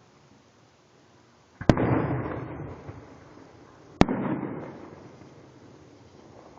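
Two fireworks shells bursting about two seconds apart, each a sharp bang followed by a long crackling rumble that dies away.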